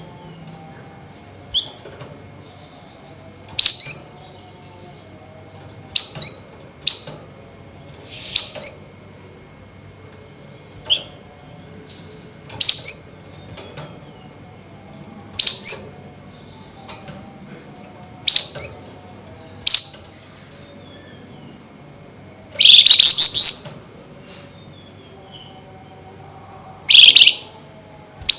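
Flamboyan songbird giving short, sharp, high-pitched calls every two to three seconds, with one longer burst of chattering lasting about a second and a half near the end.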